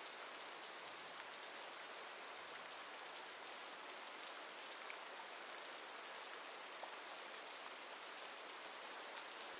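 Steady, even rain falling, with a soft patter of drops.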